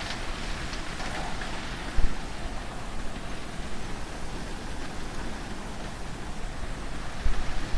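Hurricane wind and rain, a steady rushing noise with low rumbling buffets, and a sharp thump about two seconds in and a few more near the end.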